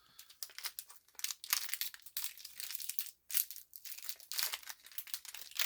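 Bananica candy bar wrapper crinkling and tearing as it is opened, in many irregular crackles.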